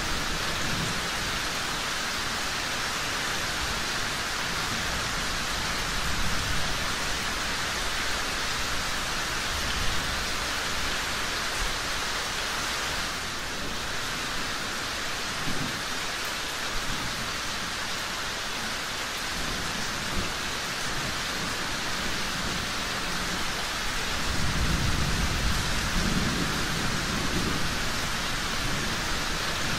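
Steady rain with low rolling thunder that swells and fades several times, the longest rumble near the end.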